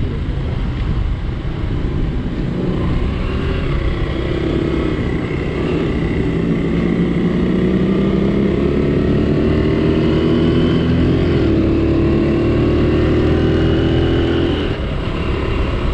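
1972 Honda CL100's small single-cylinder four-stroke engine pulling under throttle while riding. Its pitch climbs steadily, dips briefly, then holds high before the throttle eases off near the end.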